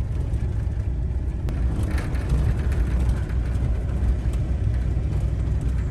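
Truck driving, heard from inside the cab: a steady low engine and road rumble.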